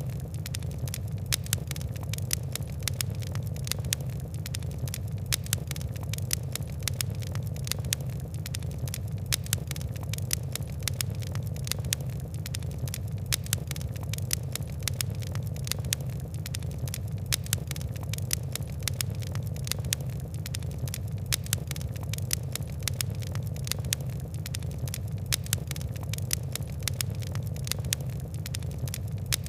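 Wood and coal fire crackling: a dense, steady patter of quick sharp ticks and pops over a constant low rumble.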